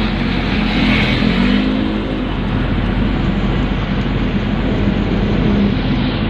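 Pickup dump truck's engine running steadily, with a continuous rush of noise over it.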